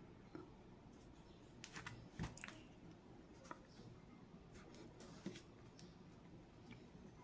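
Near silence with a few faint handling clicks and knocks, the loudest a single soft knock about two seconds in.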